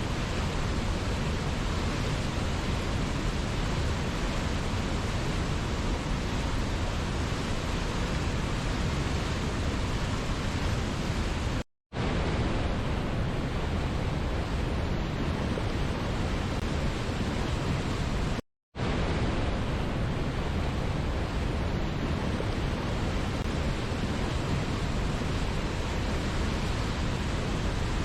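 Steady rushing of a waterfall, an even wash of water noise from deep to high. It cuts out to silence for a split second twice, about a third and two thirds of the way through.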